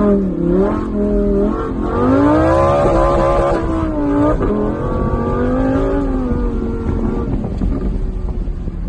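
Lamborghini Huracán Performante Spyder's V10 engine heard from inside the cabin, revving up and down as the throttle is worked. A long climb in revs begins about two seconds in and drops away just past the middle, followed by a shorter rise and fall, then a lower, steadier note near the end.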